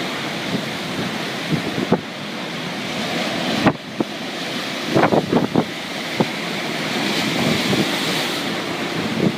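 Storm waves surging and crashing along a coast, with strong wind buffeting the microphone. There is a sudden break about a third of the way through.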